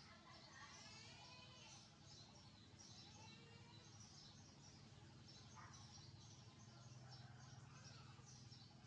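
Birds chirping faintly, a steady stream of short high chirps several times a second with a few sliding whistled notes, over a steady low background hum.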